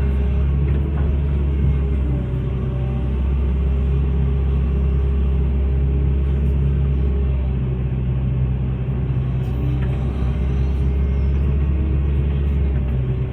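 Hitachi hydraulic excavator's diesel engine running steadily with a deep, even drone, easing slightly a couple of times.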